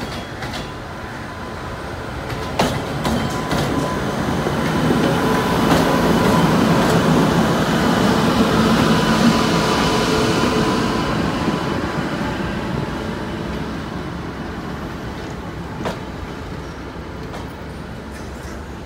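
WAP7 electric locomotive moving off slowly with a rake of LHB coaches and passing close by. A steady electric whine and wheel rumble swell to their loudest around the middle, then ease off as the coaches roll past, with a few sharp clacks of wheels over rail joints.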